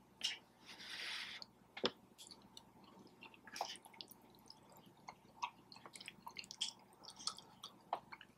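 Faint, close-up wet chewing of soft cheesy pasta, with small scattered mouth clicks and smacks.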